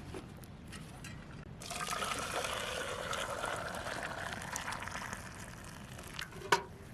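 Liquid being poured into a container for about four seconds, starting about one and a half seconds in, with a few light clicks before it and a single sharp click near the end.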